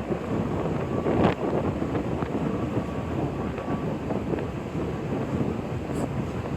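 Car ferry's engine running with a steady rumble under the sound of wind gusting on the microphone, with one stronger gust about a second in.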